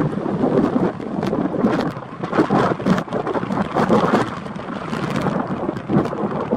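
Strong storm wind buffeting the microphone in uneven gusts, with crackling bursts of wind noise.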